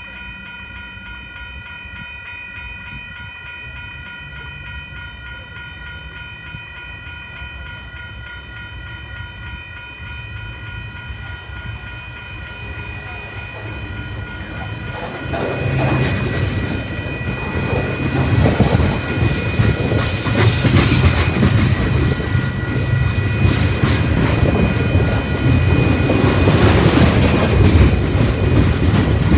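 Freight train rolling past close by, tank cars and then flatcars going by: the wheel rumble and clatter on the rails builds from about halfway through, with a few short high wheel squeals. A steady ringing tone sounds through the first half and fades as the cars arrive.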